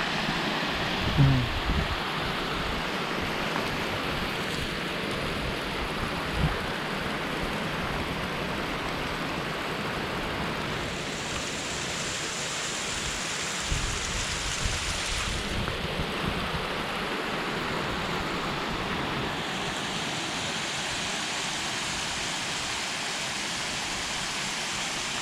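Waterfall pouring steadily, a constant rush of falling water; its flow is rising from a small stream to a river-sized torrent.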